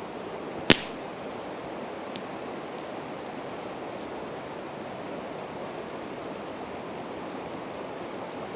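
Split evergreen wood burning in a campfire, with one sharp, loud pop under a second in and a faint crackle a little later. Both sound over the steady rush of a river.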